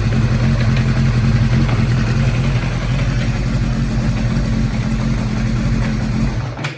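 Kawasaki Zephyr 750 air-cooled inline-four idling steadily after a cam chain repair: the cam chain's jingling rattle is gone, though a light knocking (kotokoto) still sounds. Near the end the engine shuts off, dying away with a click.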